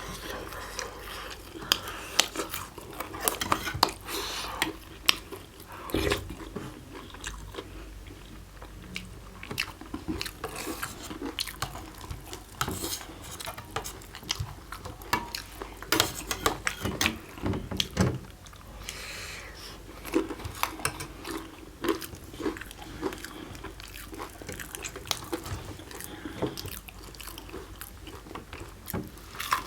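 Close-up eating sounds of people chewing and biting fresh-maize flatbread: irregular wet mouth clicks and smacks throughout.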